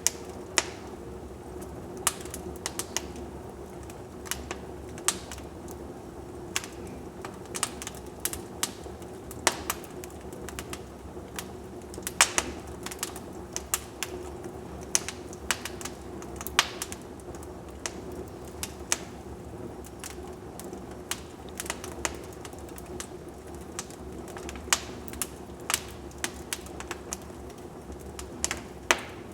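Wood fire burning in a fireplace, crackling with irregular sharp pops and snaps over a steady low background of the flames.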